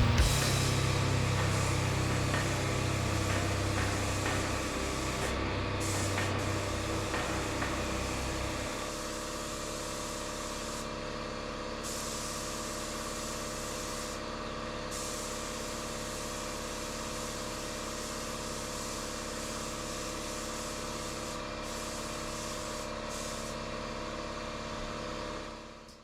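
Air paint spray gun hissing steadily, with a few brief breaks in the spray, over a steady machine hum; a deeper rumble stops about nine seconds in, and the sound fades out at the end.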